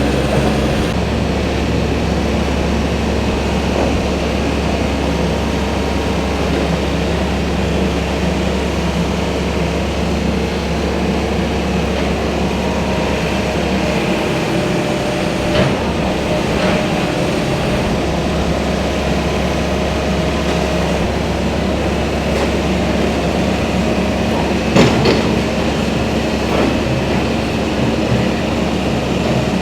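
Heavy engine running steadily with a low drone, the kind of diesel machinery at work on a building demolition, with a few short knocks about halfway through and again near the end.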